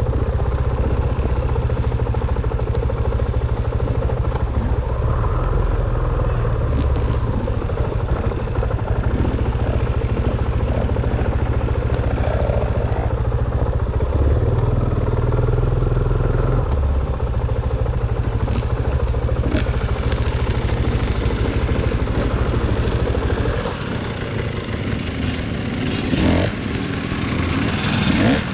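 Dirt bike engine running as the bike is ridden, its low note shifting up and down in small steps and dropping off about 23 seconds in, followed by a few knocks.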